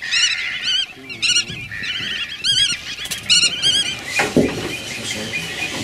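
Birds singing: quick phrases of rapidly wavering high notes, repeated every second or so, with a lower wavering call about a second in and a brief louder burst of noise about four seconds in.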